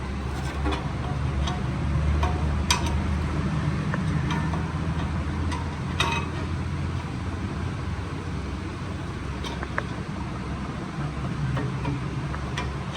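A few sharp metal clinks of parts or tools being handled, over a steady low motor rumble.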